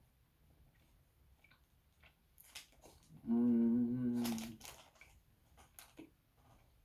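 Faint wet mouth clicks and smacks of chewing a mouthful of milk chocolate, with a closed-mouth hummed 'mmm' lasting about a second, a little past the middle.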